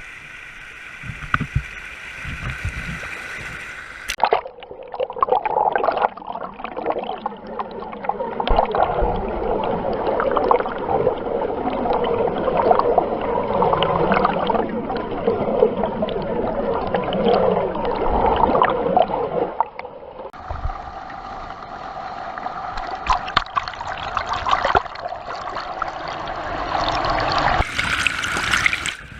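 Waterfall water falling and splashing right onto the microphone: a dense rushing noise full of small sharp spatters. The sound changes about four seconds in and again about twenty seconds in.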